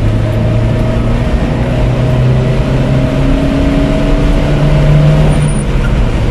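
Maruti Gypsy's four-cylinder petrol engine pulling hard under acceleration, heard from inside the cabin over road and wind noise. Its pitch climbs slowly as the revs build in the gear.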